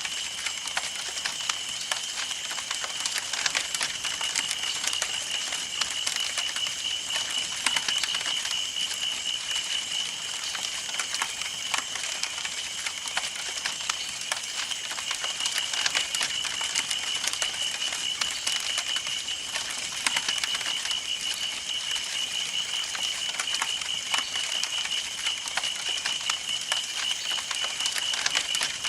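Campfire burning, wood crackling and popping in fast, irregular snaps over a soft hiss, with a steady high-pitched tone underneath.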